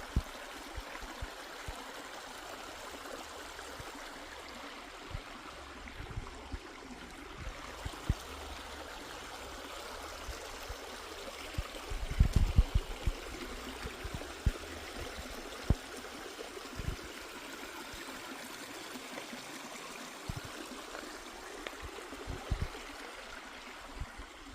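A stream running steadily, with scattered short low thumps, the loudest a cluster about halfway through.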